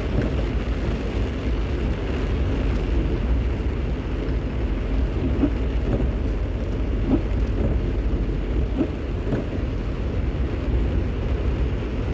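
Steady low rumble of a vehicle driving on a wet road, with a constant rain hiss and a few faint ticks over it.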